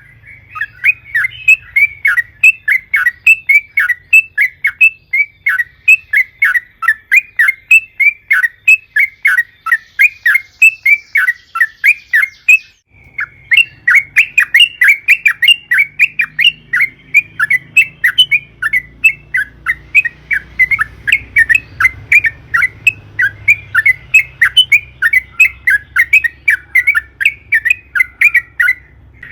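Yellow-vented bulbul (trucukan) singing a long, fast run of chattering notes, about three a second, breaking off briefly about thirteen seconds in.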